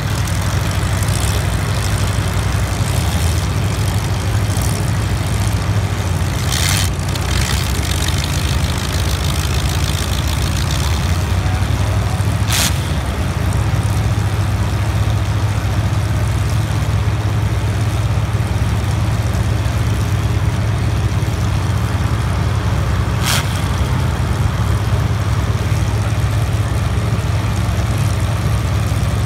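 Demolition derby cars' engines running with a steady low drone, broken by three brief sharp noises spread through.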